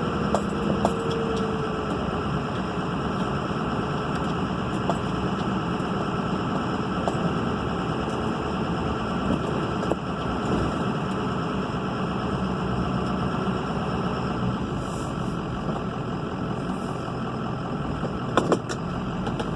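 Turbocharged vehicle engine running steadily, with a whine from the turbo that slides down in pitch over the first couple of seconds. A few short clicks occur, including a pair near the end.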